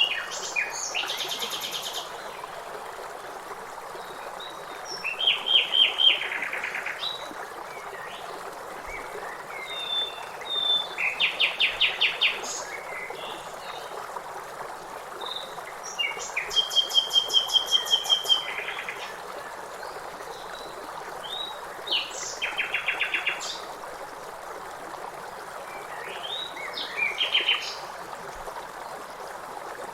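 Songbirds singing over the steady rush of a river. Phrases of rapid, evenly spaced trilled notes come about every five seconds, with scattered shorter chirps between them.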